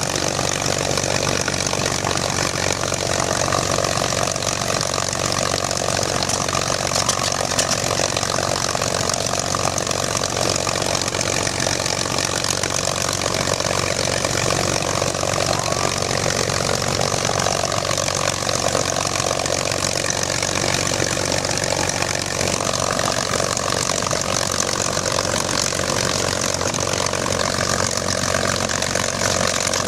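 P-51 Mustang's Rolls-Royce Merlin V12 engine idling steadily, propeller turning.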